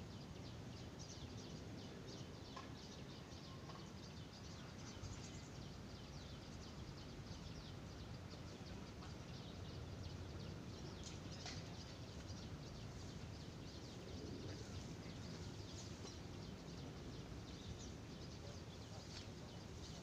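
Outdoor ambience full of small birds chirping: many short, high notes in quick, uneven succession, over a steady low background noise.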